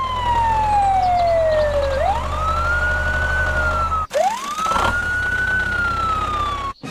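A siren wailing: one tone that slides slowly down, then swoops up and holds. It cuts off suddenly about four seconds in, then swoops up again and slowly falls, over a steady low hum.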